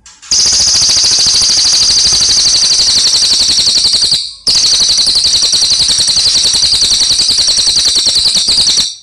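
Cililin songbird singing two long, rapid, high-pitched trills, with a short break about four seconds in.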